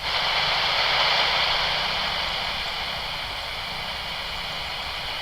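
Airband radio hiss: a steady burst of static while the channel is held open with no voice, starting abruptly and cutting off suddenly after about five seconds.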